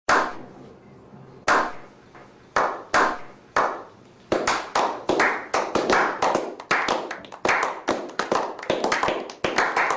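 A series of sharp claps or slaps, each with a short ringing tail: a few spaced about a second apart, then coming quickly, several a second, for the rest of the time.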